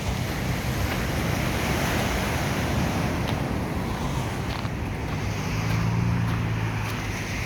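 Ocean surf washing in with wind buffeting the microphone, a steady rush of noise. A low hum comes in about five seconds in and fades near the end.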